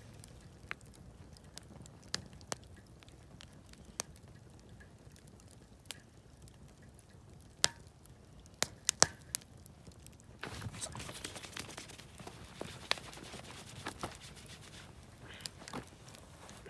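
Wood campfire crackling, with scattered sharp pops and a quick run of louder pops about eight to nine seconds in. From about ten seconds in a steady hiss joins the crackling.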